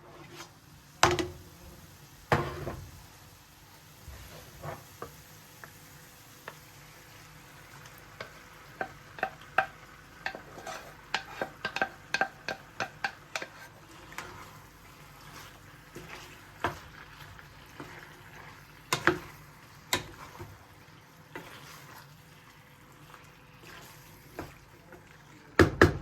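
A utensil stirring and clinking against a pot or pan, with a quick run of light taps in the middle and a few louder knocks, over a faint sizzle of food frying.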